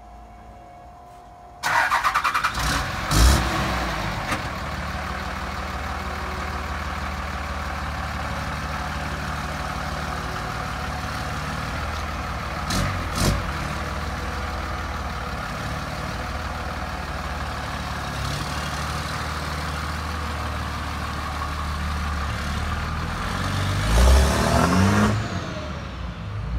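2004 Ram pickup truck's engine starting suddenly about a second and a half in, surging unevenly for a couple of seconds, then settling into a steady idle. It is revved briefly near the end, the pitch rising.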